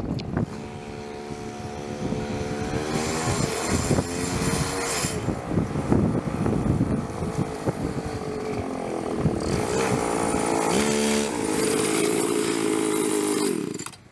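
Motorcycle being ridden: its engine running, with its pitch rising and falling as the bike speeds up and slows down.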